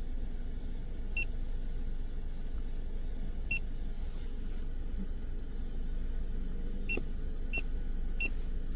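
Short, high electronic beeps from the Foxwell NT301 Plus OBD2 scanner's keypad, five single beeps spaced irregularly, the last three in quick succession near the end, over a steady low rumble.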